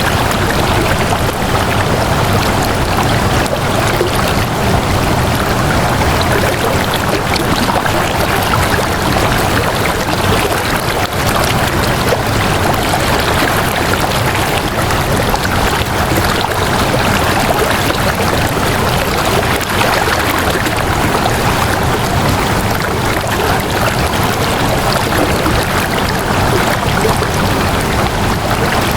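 Flowing water rushing steadily, like a stream, without a break.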